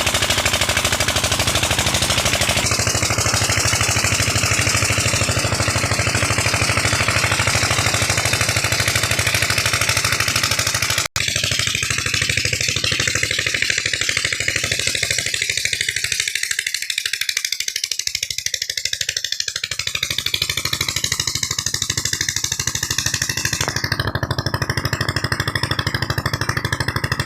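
Diesel engine driving a tubewell pump, running steadily with a rapid, even clatter. A momentary cut about eleven seconds in, after which the sound is a little thinner.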